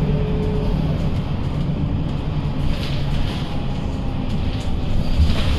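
Scania K230UB city bus running, a steady low engine and road rumble. A hiss comes up about three seconds in and again near the end.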